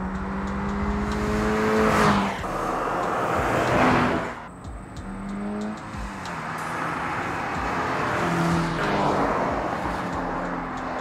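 2022 Toyota GR86's 2.4-litre flat-four engine and exhaust running hard on a race track, its note holding steady and then stepping to new pitches. It swells loudest as the car goes past about two and four seconds in, with tyre noise underneath.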